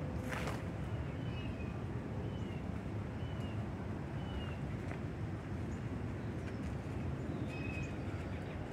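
A bird chirps short high notes about once a second over a steady low outdoor rumble. There is a single sharp click near the start.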